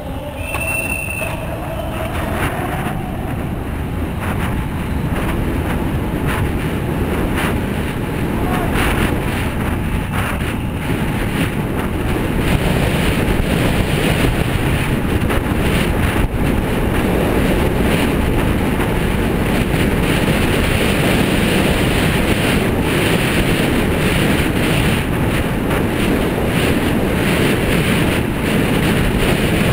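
Steady rushing wind noise and rumble on the microphone, building up over the first dozen seconds and then holding, with scattered clicks and knocks.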